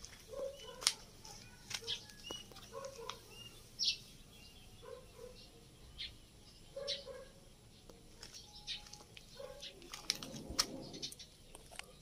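Birds calling: short low calls repeating every second or two, mixed with sharp high chirps, and a brief rustling flurry about ten seconds in.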